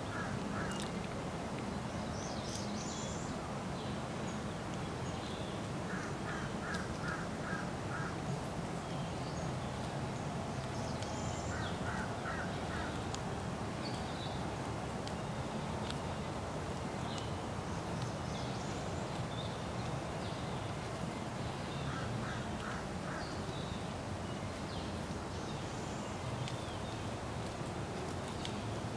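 Birds calling outdoors: one bird repeatedly gives runs of about five quick calls, several times, with smaller high chirps from other birds over a steady low background noise.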